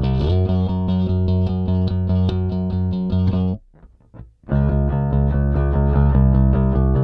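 Five-string StingRay HH electric bass played with a pick and recorded clean and direct, notes ringing out with a short pitch slide near the start. About halfway through the playing stops for under a second, then picks up again.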